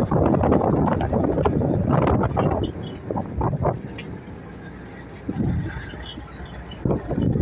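Heavy truck's engine and drivetrain running while driving, heard from inside the cab, with wind on the microphone. The noise eases off for about a second around four seconds in, then builds again near the end.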